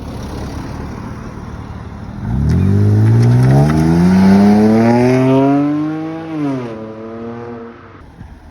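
A car accelerating hard away, its engine note climbing steadily for about four seconds, then dropping sharply and holding lower before fading. Before it, a low engine rumble.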